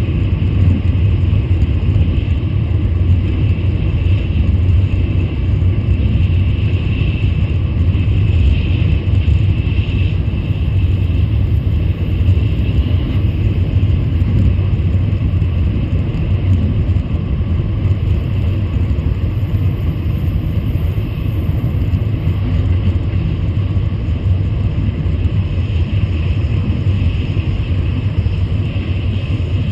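Shinkansen high-speed train running at speed: a steady, even rumble that doesn't change.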